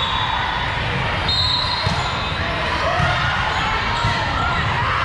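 Gym noise during a tournament game: balls thudding as they bounce on the floor, a high, steady whistle lasting under a second about a second in, and voices echoing in the large hall.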